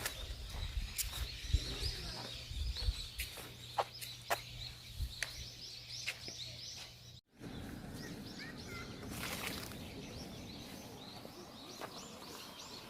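Small songbirds chirping and twittering over outdoor ambience, with scattered sharp clicks and a low rumble in the first half. The sound drops out briefly about seven seconds in, and the chirping carries on over a steadier background hiss.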